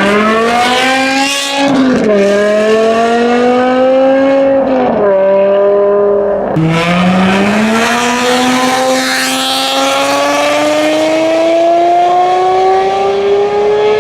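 Car engine with a loud aftermarket exhaust accelerating up through the gears. The pitch climbs, drops at a gear change about two seconds in, climbs again, drops at a second shift near seven seconds, then rises slowly in a long pull.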